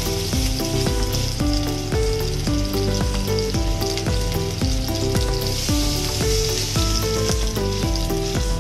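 Chicken pieces frying in hot soybean oil with a steady sizzle, over background music with a melody of short notes and a steady low beat.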